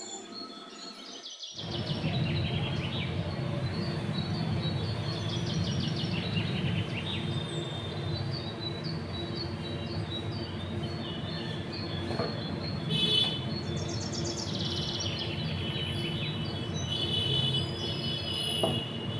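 Birds chirping and trilling again and again over a steady low background rumble, with a couple of faint knocks.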